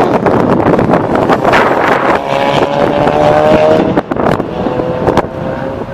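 A car's engine accelerates past on a race track, its note climbing. About four seconds in it dips sharply, then climbs again. Wind buffets the microphone.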